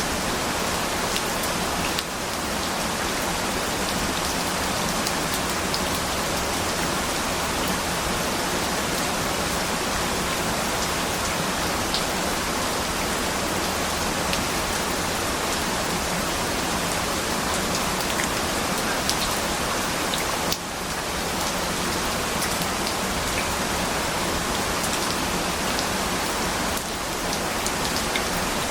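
Steady rain falling, an even hiss with scattered faint drop ticks. The level drops suddenly and recovers three times.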